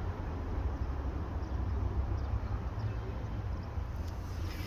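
Steady outdoor background noise: a low rumble with a fainter hiss above it and no distinct events.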